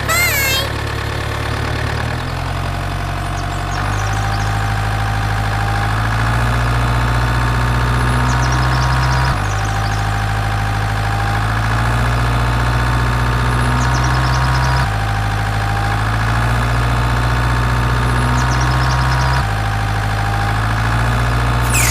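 Heavy engine sound running steadily, rising in steps and dropping back about three times, with the same pattern coming round every few seconds.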